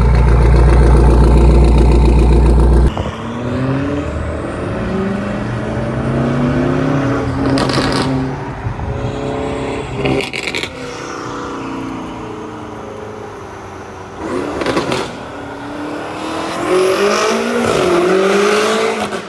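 2023 BMW M5 Competition (F90) twin-turbo 4.4-litre V8 with catless downpipes and a straight-piped, valveless exhaust, very loud. A deep, steady rumble changes abruptly about three seconds in, and then the engine note rises and falls several times as it revs and pulls. A few sharp cracks come in between.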